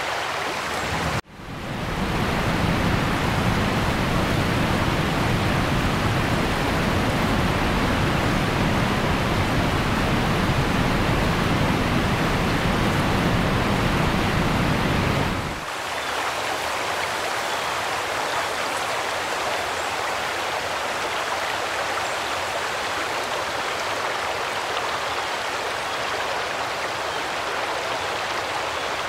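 Steady hiss of rain and of traffic on wet roads, with a deep rumble under it until about halfway through. A brief dropout about a second in, then a sudden change about halfway to a thinner steady hiss.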